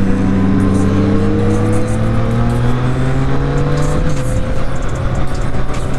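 Triumph Street Triple R's inline-three engine pulling under acceleration, its note climbing steadily, then dropping quickly about four seconds in as the rider shifts up or rolls off, and holding steady after.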